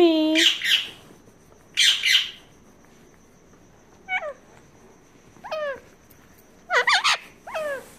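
Pet parrot calling: a loud harsh squawk about two seconds in, then short chirps that slide down in pitch, several close together near the end.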